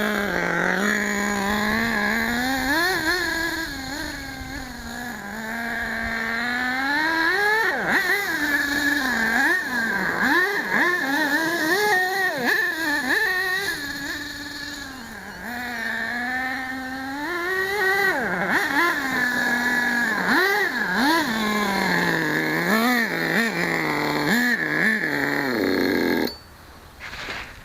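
HPI Savage nitro RC monster truck's small two-stroke glow engine, revving up and down over and over as the truck is driven around, then stopping near the end. The owner says the engine is running a bit lean.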